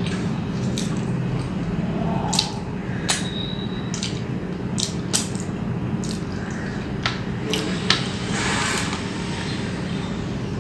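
Wet chewing and mouth sounds of a person eating, with scattered small clicks, over a steady low mechanical hum of background noise.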